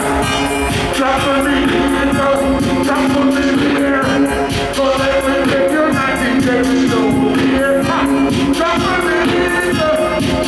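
Reggae band playing with a singing voice over a steady bass line and regular drum beat.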